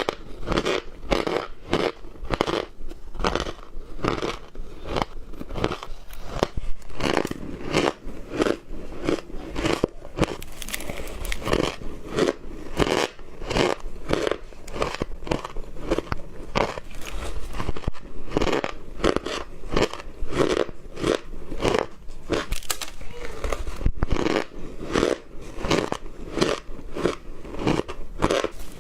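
Ice being bitten and chewed close to the microphone: a steady run of crisp crunches, about two to three a second.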